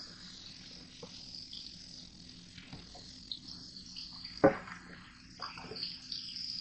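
Scattered light clicks and knocks of kitchen food preparation, with one sharp knock about four and a half seconds in, over a faint steady appliance hum and a high hiss.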